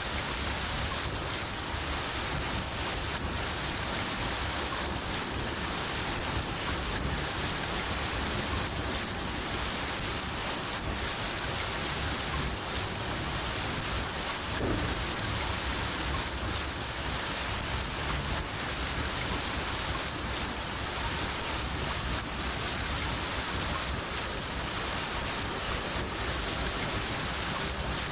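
Crickets chirping steadily, about two to three chirps a second, over steady rain.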